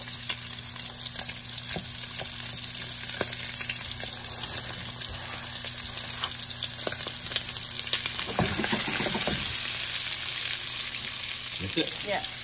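Sliced smoked sausage sizzling steadily in oil in a frying pan as sliced onions and bell peppers are added and stirred in, with scattered light clicks from the utensils.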